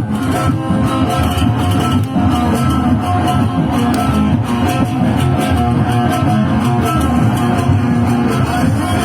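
Live band music, an instrumental passage without singing, with guitar and bass prominent over a steady accompaniment.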